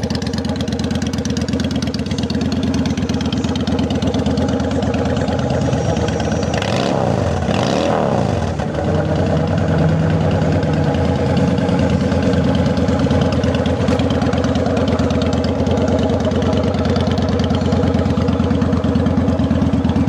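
A Honda Shadow Aero's 750cc liquid-cooled V-twin runs through aftermarket Vance & Hines exhaust pipes, idling steadily. About seven seconds in, the throttle is blipped, and the revs rise and fall briefly before it settles back to idle.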